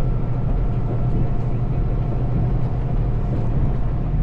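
Semi-truck cab on the move: a steady low drone of engine and road noise.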